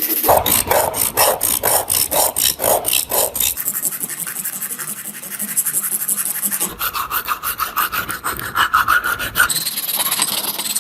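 Rhythmic back-and-forth abrasive rubbing strokes worked by hand, about three a second. After a quieter pause comes a faster run of strokes with a higher, raspier tone.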